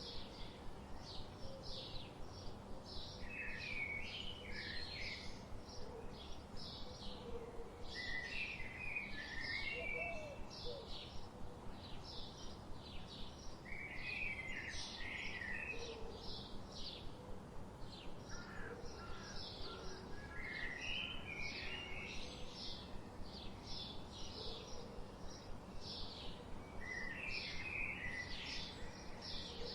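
Forest birdsong: one bird repeats short high chirps about twice a second, while another sings a brief warbled phrase every five or six seconds, over a steady low hiss.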